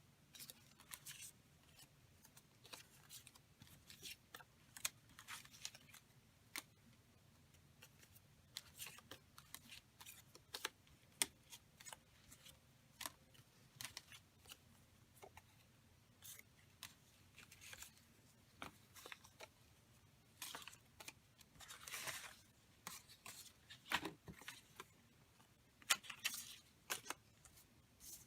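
Scissors snipping paper in short, irregular cuts, fussy cutting a printed image out of a page.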